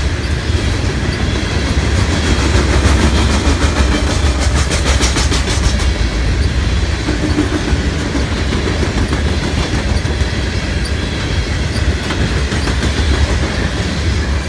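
Loaded coal hopper cars of a freight train rolling past: a steady low rumble, with the wheels clicking over the rail joints.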